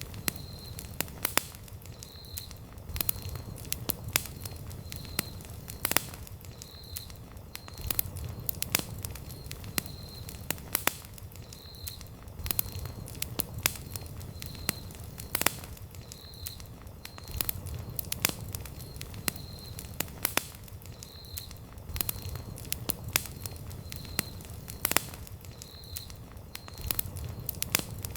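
Wood campfire crackling steadily, with frequent sharp pops and snaps over a low rumble of the flames. A faint short high note recurs about once a second throughout.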